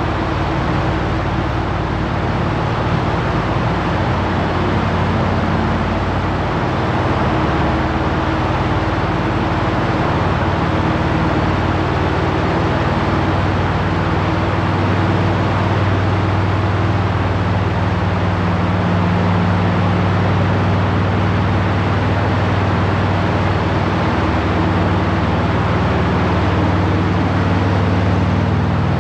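Harley-Davidson Road Glide Limited cruising at road speed: steady wind rush and road noise over the V-twin engine's drone. The engine tone grows stronger in the second half.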